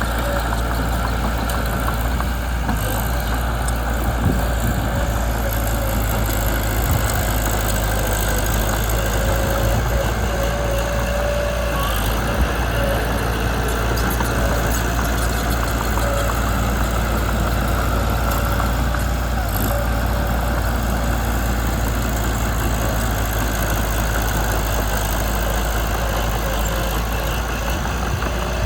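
Mitsubishi BD2 crawler bulldozer's diesel engine running steadily while the machine works, with a few faint knocks over it.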